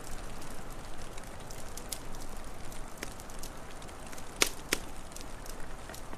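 Wood fire crackling: scattered sharp pops over a steady hiss, with two louder cracks in quick succession about two-thirds of the way in.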